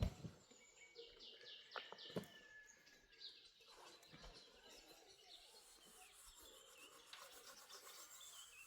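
Faint outdoor ambience with a small bird giving a quick run of short high chirps about a second in, among a few sharp knocks and scattered distant bird calls.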